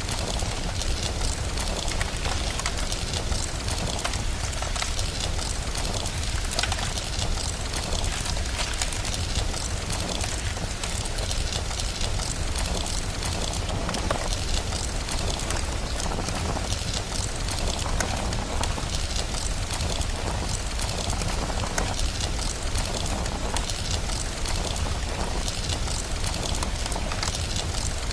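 Steady rain mixed with a crackling wood fire: constant hiss of rainfall with a low rumble underneath, and many small sharp crackles and pops scattered throughout.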